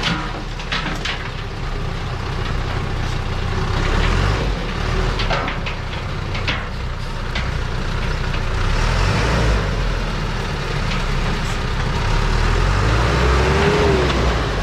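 Dump truck's diesel engine running with a low rumble that rises and falls a little, with a few short sharp knocks over it.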